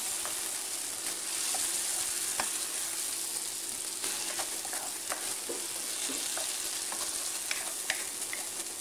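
Onion, garlic, zucchini flesh and potato sizzling in oil in a nonstick wok as they are sautéed, stirred with a wooden spatula that gives scattered light scrapes and taps against the pan.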